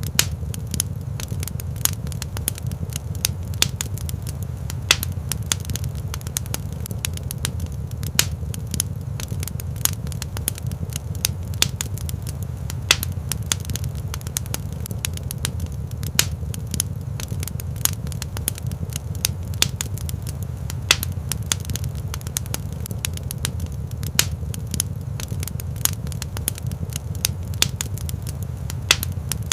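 Wood fire burning in a rock fireplace: a steady low rumble with frequent irregular pops and crackles.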